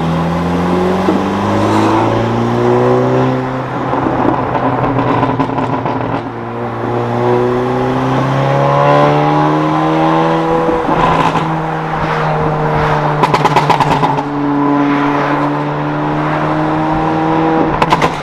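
2017 Honda Civic Si's turbocharged 1.5-litre four-cylinder, with a catless downpipe and a Phearable tune, accelerating through the gears, heard from inside the cabin: the engine note climbs, drops at an upshift about six seconds in, climbs again and then holds steady. A quick run of crackling comes from the exhaust in the second half.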